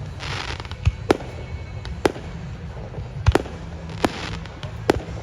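Aerial fireworks bursting, about six sharp bangs spaced irregularly over five seconds, with a spell of crackling just after the start and another about four seconds in.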